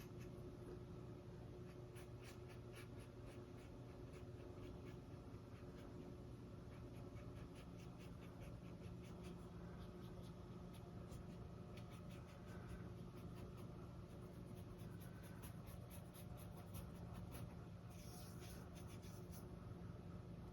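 Faint scratchy strokes of a long round paintbrush dragging acrylic paint across a stretched canvas, heard over a low steady hum.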